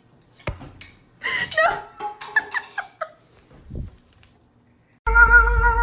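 A knock and a few short, wavering cries, then near the end a cat starts a long, steady yowl.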